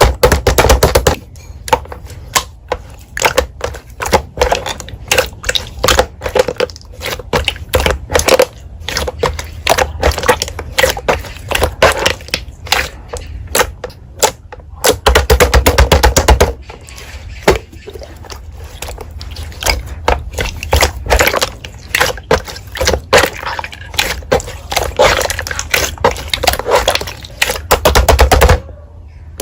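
Slime being squeezed, pressed and poked by hand, making rapid, irregular clicking and crackling pops. It thickens into longer stretches of dense crackling twice, midway and near the end.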